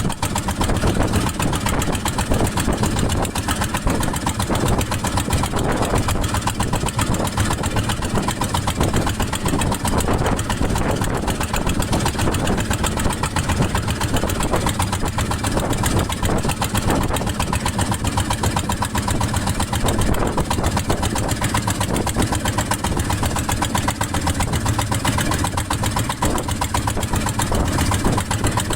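Small fishing boat's engine running steadily as the boat travels.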